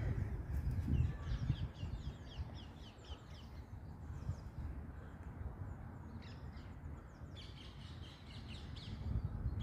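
Birds chirping in quick clusters of short, high, downward-sliding notes, over a steady low rumble of outdoor background noise.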